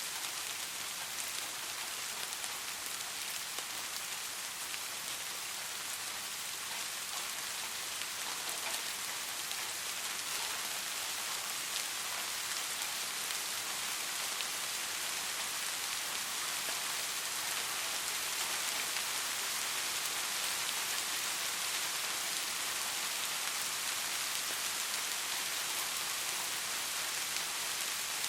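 Steady rain falling and pattering on surfaces, an even hiss with dense drop ticks.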